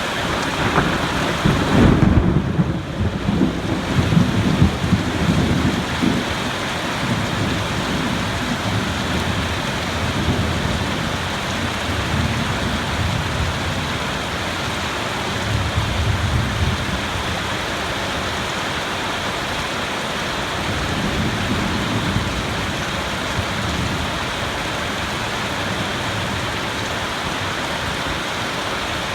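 Steady rain falling with thunder rolling: a loud rumble in the first few seconds, then several fainter rumbles through the rest.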